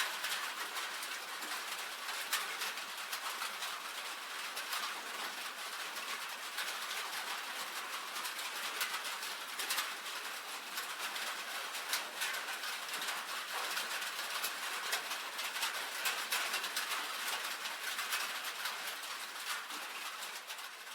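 Steady rain drumming on a tin roof: a constant hiss of rainfall with many sharp individual drop taps on the metal.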